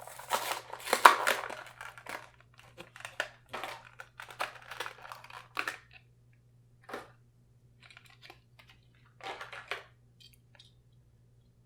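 Plastic blister packaging and cardboard crinkling and tearing as a boxed diecast car is opened. The rustling is loudest in the first couple of seconds, then thins to scattered crackles, with two brief rustles later on.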